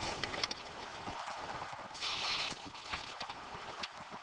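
Hands handling car parts: scattered light clicks and knocks, with a short rustling scrape about two seconds in.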